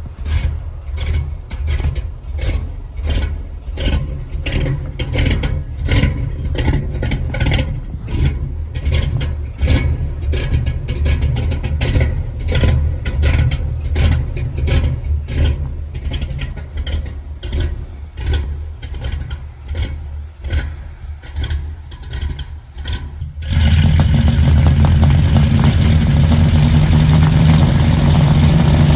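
Carbureted 1983 Chevy K20 truck engine running after a cold start, with scraping and crackling noises close to the microphone over it. About 23 seconds in the engine sound suddenly becomes louder and fuller.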